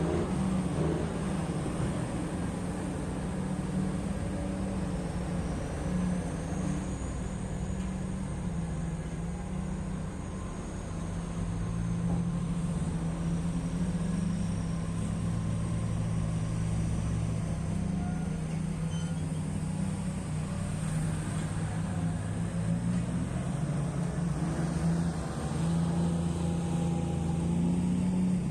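Heavy diesel engine of mining earthmoving equipment running steadily, its low pitch shifting slightly as it works.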